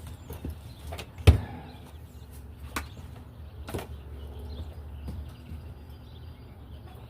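A few separate sharp knocks and clunks, like wood and tools being handled on a workbench, the loudest about a second in, over a steady low hum.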